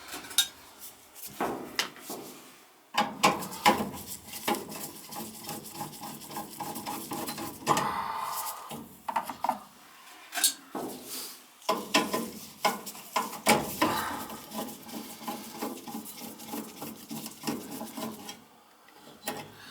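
Irregular metal clinks, clicks and scraping of tools and sheet-metal parts being handled while a gas furnace is taken apart to get at its gas valve.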